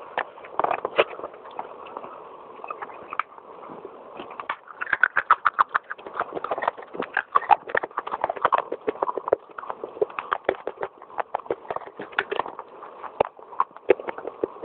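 Crisp crunching and cracking of baked clay pot pieces being bitten and chewed, in a rapid run of crunches that is densest and loudest through the middle.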